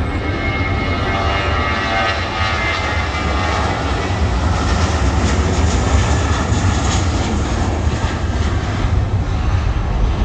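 Jet airliner engines running with a loud, steady roar, with a faint high whine in the first few seconds.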